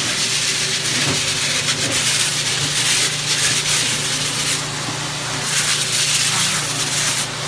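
Vacuum of a Beast dryer-vent cleaning machine running, its hose sucking air and lint with a steady rushing hiss over a low hum. The nozzle rubs and scrapes as it is worked over the surface.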